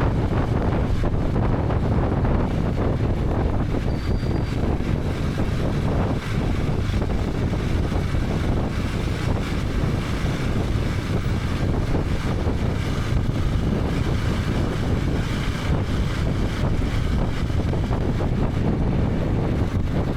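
KTM 250 Adventure's single-cylinder engine running steadily while riding, with wind noise on the microphone.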